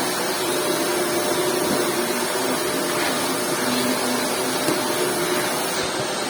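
Household vacuum cleaner running steadily, a constant rushing noise with a low hum under it.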